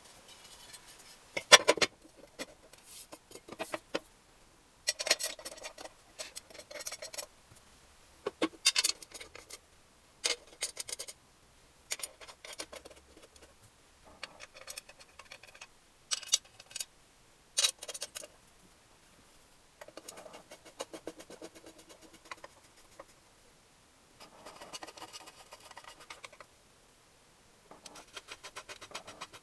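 Hand tools and metal engine parts being handled during motorcycle engine assembly: irregular clicks, scrapes and short metallic rattles, with spells of fast ticking in the second half.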